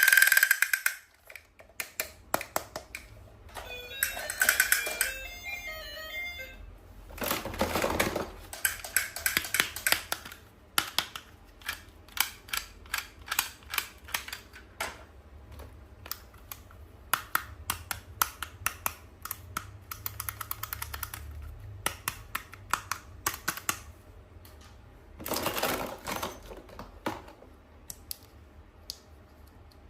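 Hands handling toys and their packaging: many small, sharp plastic clicks and taps, with two longer bursts of rustling. A short tinkling run of notes comes about four seconds in.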